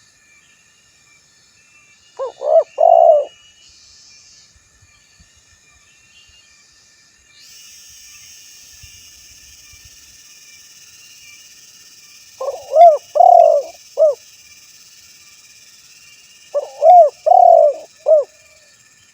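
Male spotted dove cooing in three phrases, each a quick run of a few rounded coo notes, with long pauses between them. A faint steady high hiss sits underneath, stronger from about a third of the way in.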